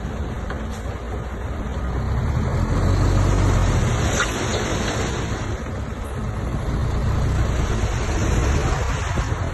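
Heavy diesel earthmoving machinery running under load, the engine swelling louder twice, with a sharp metallic click about four seconds in.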